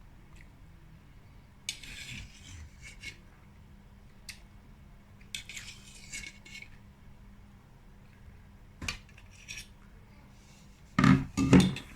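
Cutlery on a bowl: short, scattered bursts of scraping and clinking and a few sharp clicks, with a louder clatter of several strokes near the end.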